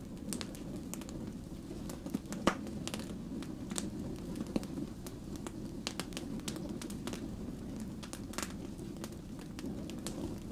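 Wood fire crackling: many sharp pops and snaps over a steady low rumble of the flames. The loudest pop comes about two and a half seconds in.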